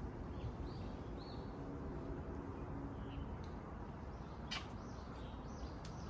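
Small birds chirping, short high calls scattered through, with two sharp clicks about four and a half and six seconds in over a steady low rumble.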